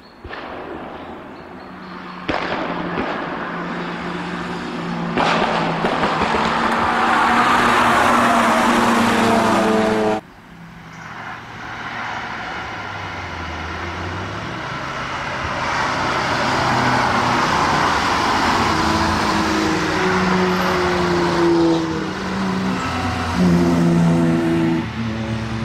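Cars going past at speed on a race circuit, heard from the trackside, engines revving up and down through gear changes. Several short clips are cut together, so the sound changes abruptly a few times.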